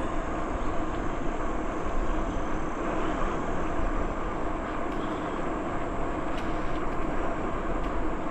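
Steady rushing noise of a bicycle ride: wind on the microphone and tyres rolling on the trail surface.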